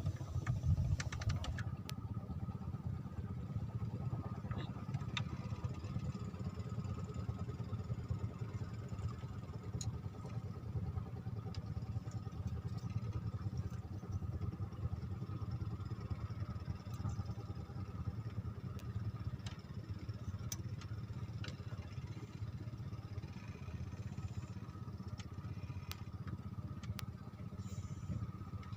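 A steady low motor drone with a faint steady whine above it and a few light clicks.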